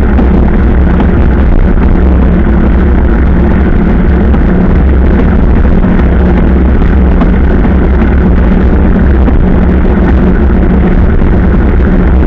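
Motorcycle under way at a steady speed: a loud, even engine drone with a low hum that neither rises nor falls.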